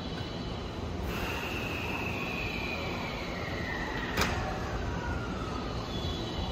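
JR West 283 series limited express train standing at the platform with a steady low rumble. About a second in, a hiss of air starts suddenly, carrying a whistling tone that slowly falls in pitch, and a single sharp click comes about four seconds in.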